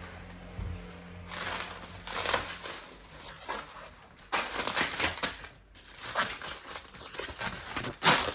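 Packing material being handled and pulled off a new bicycle during unboxing: irregular crinkling and rustling, starting about a second in, with a sharper crackle near the end.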